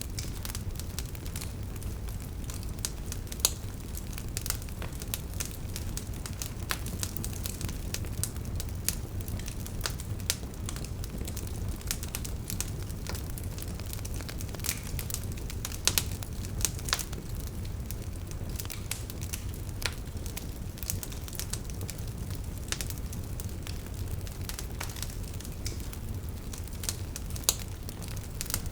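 Wood fire burning with a steady low rumble of flames and frequent irregular crackles and sharp pops from the burning logs.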